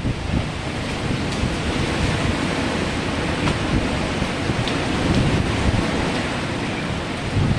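Strong wind blowing hard and buffeting the microphone, a loud continuous rush with an uneven low rumble.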